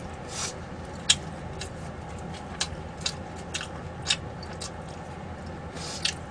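Close-up eating sounds of someone chewing roast duck: irregular wet mouth clicks and smacks, several a second at times.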